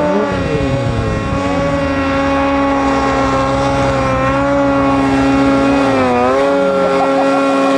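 Snowmobile engine held at high revs, steady, easing off briefly about six seconds in and then picking back up.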